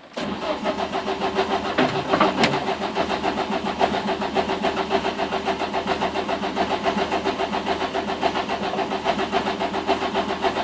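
Renault Clio 172/182 track car's 2.0 16-valve engine being cranked on the starter for about ten seconds with an even, rapid pulsing, cutting off suddenly without the engine firing. It will not start after jump leads were connected the wrong way round.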